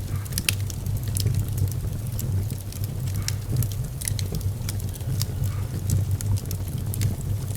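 Wood fire burning in a fireplace: many sharp, irregular crackles and pops over a steady low rumble.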